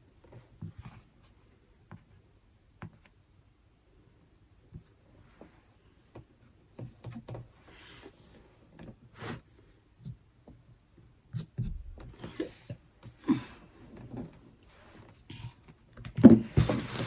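Scattered light taps, clicks and scrapes of hands and utensils working biscuit dough on a kitchen work surface, growing busier after the first few seconds and ending in a louder clatter.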